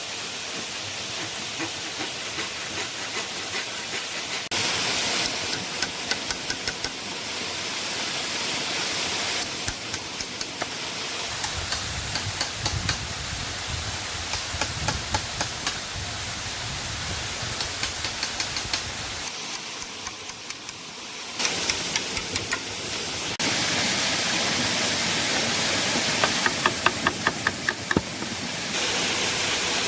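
Steady rushing of a waterfall, with several runs of quick sharp knocks, several a second, from work on bamboo. The water noise changes level abruptly a few times.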